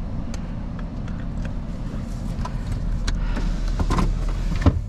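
A truck running, heard from inside the cab: a steady low rumble with scattered small clicks and rattles, and a sharp click near the end.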